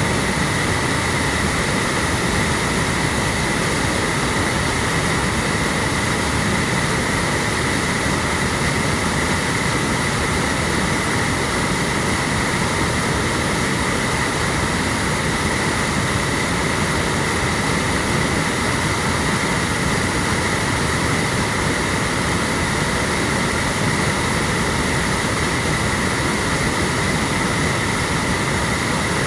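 Waterfall pouring down a mountainside: a steady, loud rush of falling water that does not change.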